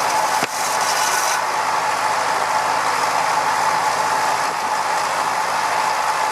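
Vintage stationary engine machinery running steadily, with a constant tone above the mechanical noise and a brief break about half a second in.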